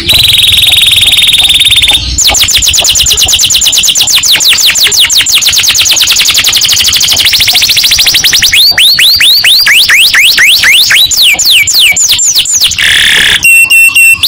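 Domestic canary singing loudly in fast, rolling trills (the 'ngerek' style). A buzzy trill changes after about two seconds into very rapid high repeated notes, then into slower falling whistled notes, about four a second, and then a brief series of steady-pitched notes near the end.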